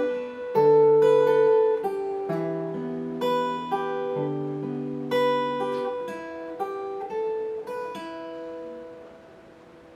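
Acoustic guitar, a Vietnamese-made copy of a Taylor 314ce, played with picked notes and chords that ring over one another. The playing stops about eight seconds in and the last chord fades out.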